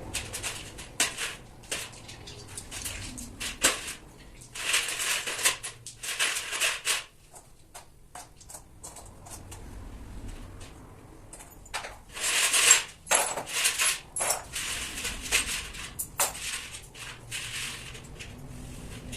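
Metal tools and parts clinking and scraping during work on a tractor cylinder head, with sharp clinks throughout and several longer rasping scrapes.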